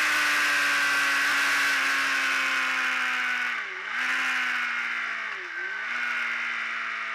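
Ducati Streetfighter's L-twin engine heard on board at speed under heavy wind rush. The engine note falls slowly, dipping briefly twice: about halfway through and again near the end.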